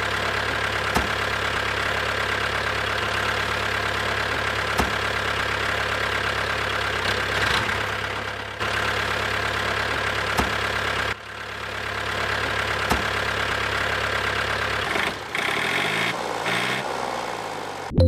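Steady engine-like running drone with a low hum, broken by short dips a couple of times.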